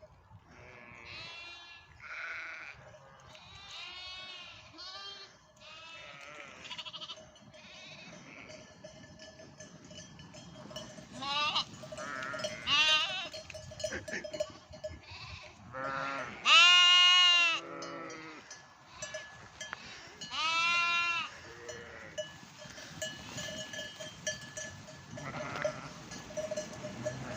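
Lambs bleating over and over, many separate wavering calls, the loudest about two thirds of the way through.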